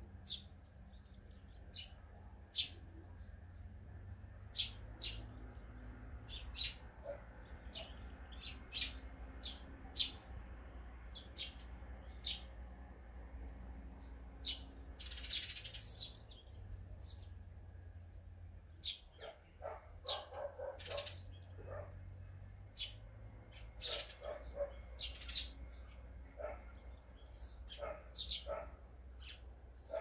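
Small songbirds chirping: many short, sharp calls scattered through, with a denser run of lower chirps about two-thirds of the way in. A brief rustling burst about halfway through.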